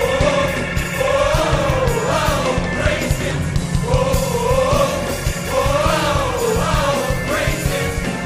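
Gospel choir singing a flowing melody over instrumental accompaniment, with steady bass notes and a regular beat underneath.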